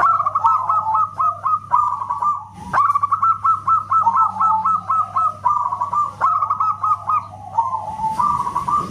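Zebra dove (perkutut) singing: a fast run of short, clipped coo notes, about five a second, pausing briefly a couple of seconds in and then running on.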